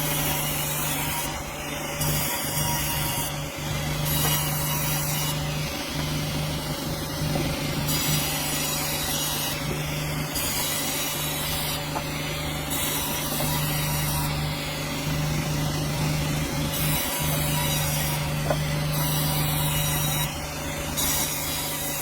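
Sawmill cutting through a dense hardwood log: a steady machine drone under a hissing saw noise that comes and goes every second or two.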